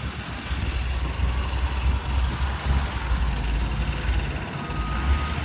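Heavy diesel engine of a motor grader running steadily under load while mixing soil, a deep low rumble that swells about half a second in.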